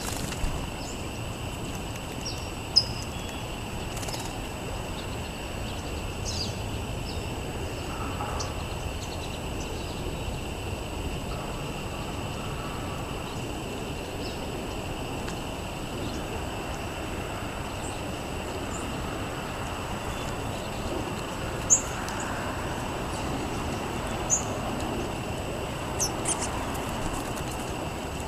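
Outdoor ambience: scattered short, high bird chirps over a steady background hiss, with a couple of sharp taps or clicks.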